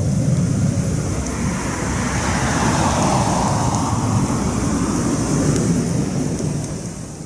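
Campfire burning with a steady low rumble and a few faint crackles; a broader rushing sound swells in the middle and fades again.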